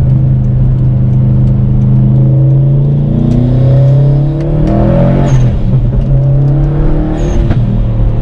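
Subaru WRX STI's turbocharged flat-four engine under acceleration, heard from inside the cabin, its pitch climbing through the middle. A brief hissing burst comes as the pitch drops about five seconds in and again about seven seconds in, where the revs fall for gear changes.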